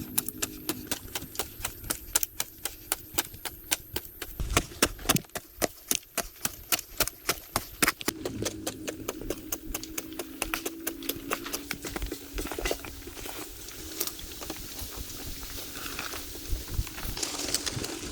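A rapid run of sharp clicks and taps, several a second, thinning out about eight seconds in, when a steady low hum comes in beneath the remaining clicks.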